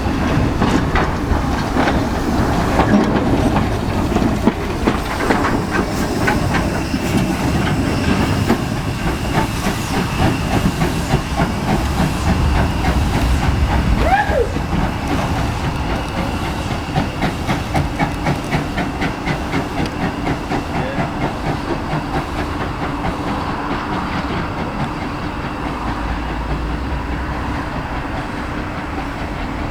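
Heritage railway train running, with a steady rhythmic clatter of wheels over the rails and a hiss, and a brief squeal about halfway through. The clatter grows gradually quieter in the second half.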